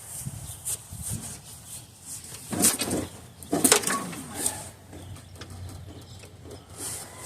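Clanks and scrapes of a truck's sheet-metal body panel being worked loose: two loud clanks about a second apart in the middle, with lighter knocks around them.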